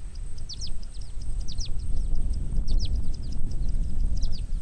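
Birds calling with short, downward-sweeping chirps, often in pairs, about once a second, over a steady low rumbling noise and a thin, steady high-pitched tone.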